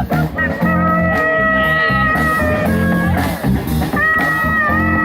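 Blues band playing live, with guitar, a low bass line and long held high notes over it.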